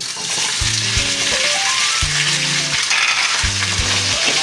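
Boiled chicken feet hitting hot oil in a frying pan: a loud sizzle that starts suddenly and keeps on steadily while they are stirred with a spatula.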